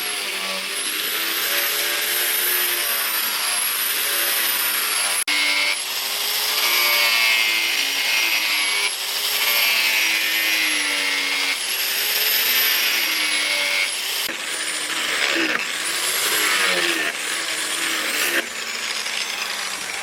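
Electric power sander or grinder sanding, a steady hiss of abrasive against the work. The motor's pitch keeps rising and falling as pressure on it changes, with a brief break about five seconds in, and it cuts off suddenly at the end.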